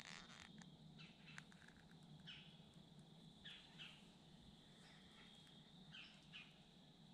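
Near silence with faint, short bird chirps: about five of them, two coming in quick pairs, over a steady faint high tone.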